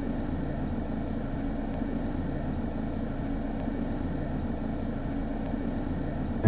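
Steady low rumble of a car running, picked up by a dashcam inside the car, with faint ticks about every two seconds.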